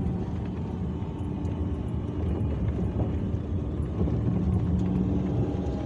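Car driving on a rough, narrow road: steady low engine and tyre rumble with a constant engine hum.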